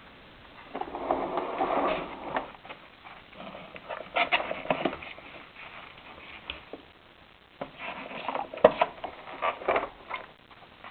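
Handling noises from a bagged vacuum cleaner while its dust bag is being changed: irregular rustling and scraping in bursts, with sharp clicks, the loudest click about nine seconds in. The motor is not running.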